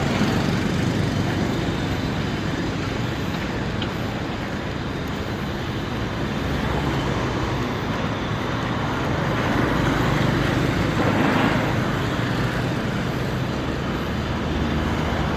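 City road traffic: a steady rumble of passing cars and other vehicles, swelling a little about two-thirds of the way through as vehicles go by.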